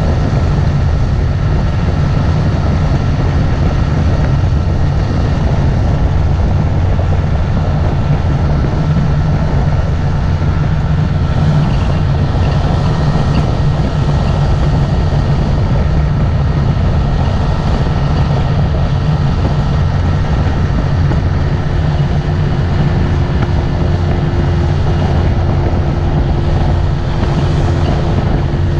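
Motorboat engine running steadily while the boat is under way.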